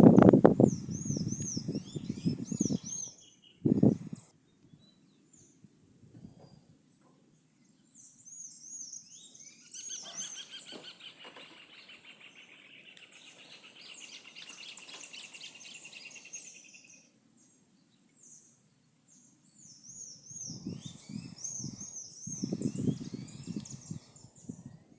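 Songbirds calling: repeated short high chirps, with a longer trilling song in the middle. A louder low rushing noise sits at the start and comes back near the end.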